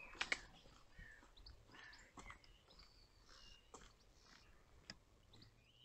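Near silence with faint birdsong: scattered short chirps and whistles, and two faint clicks just after the start.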